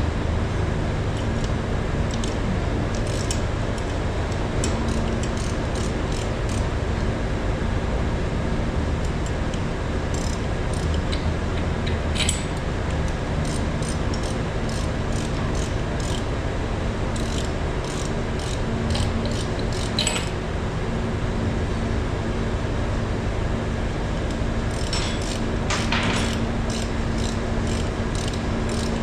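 Metal parts and hand tools clicking and clinking again and again, in clusters, over a steady low machine hum.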